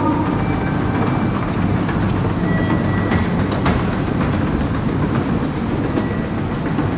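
Steady rumbling of a train running through the railway station, with a few faint clicks midway.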